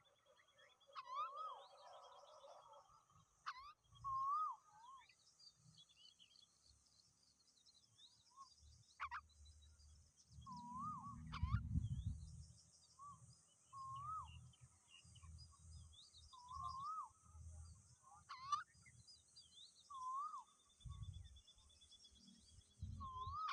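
Bird calls: a short, wavering whistled note repeating every one to two seconds, over a steady high hiss. A few sharp clicks and low bumps sound close to the microphone, the heaviest about halfway through.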